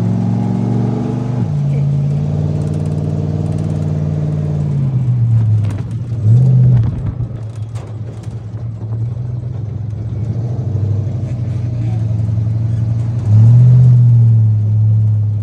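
Monster truck engine running under load, heard from aboard the ride, revving up and easing off. There is a short loud surge about six seconds in and a longer, louder rev near the end.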